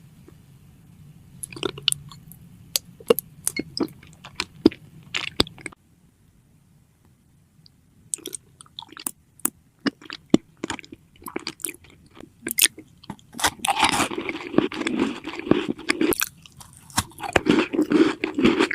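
Close-miked eating: crisp bites and crunchy chewing, a string of sharp separate crunches that turns into denser, continuous chewing near the end.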